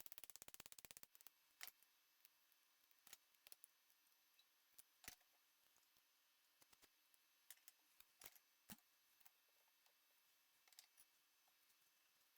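Faint mechanical clicking from hand work on a milling machine head: a fast, even run of clicks in the first second, then scattered single light clicks and taps.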